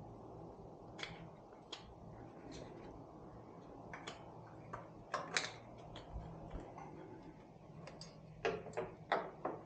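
Irregular clicks and light knocks of hand tools and parts being handled while working on a motorcycle, with small clusters of clicks about five seconds in and again near the end.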